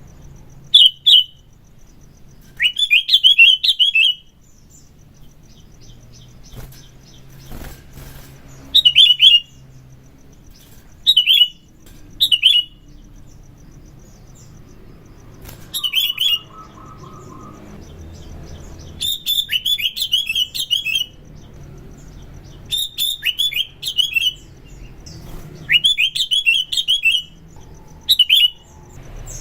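Sooty-headed bulbul (kutilang) singing short, bright phrases of quick notes, many of them sliding down in pitch. The phrases come every second or few seconds, some single notes and some longer runs of a second or two.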